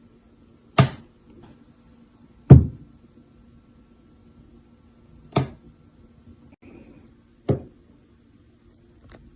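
Four sharp knocks, a couple of seconds apart, the second the loudest, with a fainter fifth near the end over a faint steady hum.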